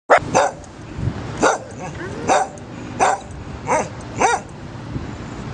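A dog barking, about seven short barks at irregular intervals over a steady background hiss.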